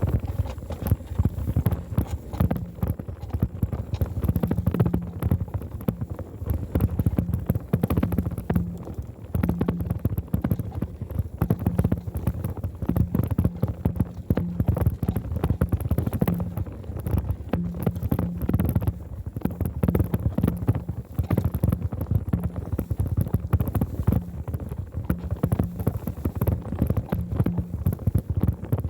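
Rapid, irregular rattling and knocking of a bicycle ridden over a bumpy road, picked up through a phone mounted on the handlebar, over a low rumble.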